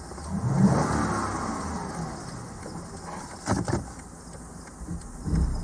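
Lexus LS460's 1UR-FSE 4.6-litre V8 revved once about half a second in, pitch rising and falling back to a steady idle. A few sharp clicks come past the middle and a dull thump near the end.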